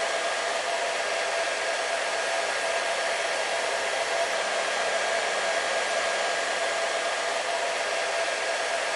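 Hair dryer running steadily: an even rushing hiss of blown air with a constant motor whine.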